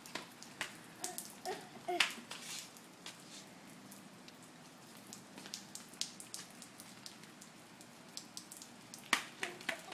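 Light rain falling, with scattered sharp ticks of raindrops hitting nearby surfaces over a soft steady hiss.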